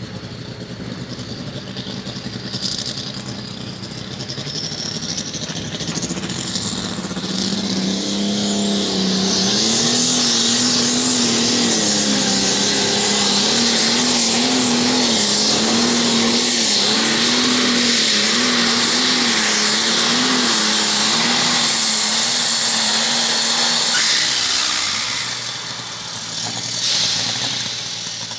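Super stock pulling tractor's engine at full power during a pull. It builds up over the first several seconds and holds loud for about fifteen seconds, its pitch wavering as it works against the sled. About 24 seconds in it drops off as the pull ends, with one short rev near the end.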